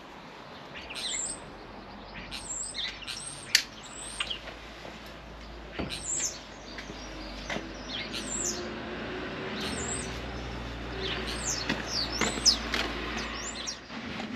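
Small wild birds chirping: short, high calls that sweep down in pitch, repeated irregularly, several birds at once.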